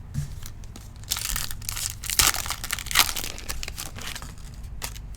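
Foil wrapper of a trading-card pack crinkling and tearing as it is opened, in a run of rustles over a couple of seconds, with a single sharp click near the end.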